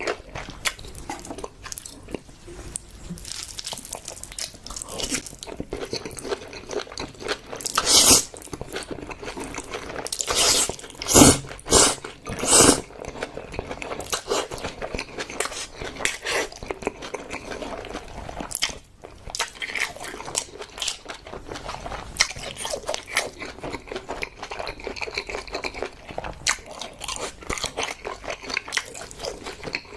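Close-miked eating sounds: a person chewing and biting into a meal of spicy pig's trotters and spicy mixed noodles, with a stream of small wet clicks and a few louder bites or mouthfuls about a third of the way in and near the middle.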